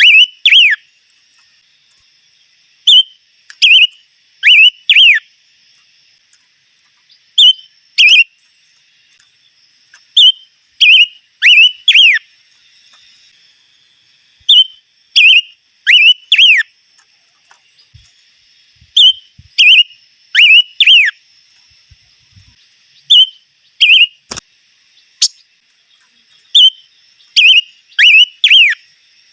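A songbird, the Vietnamese 'chim ngũ sắc' (five-colour bird), singing loud, clear whistled phrases. Each phrase is two or three quick notes that slide down in pitch, repeated every second or two over a faint steady high buzz, with one sharp click about 24 seconds in.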